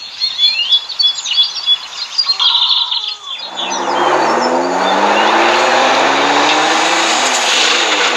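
Birds chirping for about three seconds, then a car engine comes in loud and runs on with its pitch rising slowly as the car accelerates.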